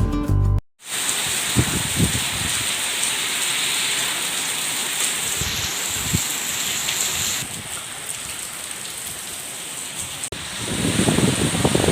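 Heavy rain pouring steadily, a dense even hiss. Near the end a louder low rumble swells in over the rain.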